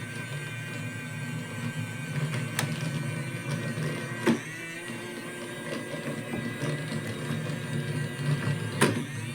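Small Daiso robot vacuum running, its motor giving a steady whine with held tones. A few sharp knocks break in, the loudest about four seconds in and another near the end, typical of the machine bumping into obstacles.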